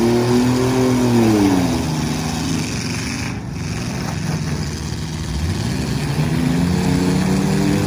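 Demolition derby trucks' engines revving: one falls in pitch over the first two seconds, then climbs again from about five seconds in.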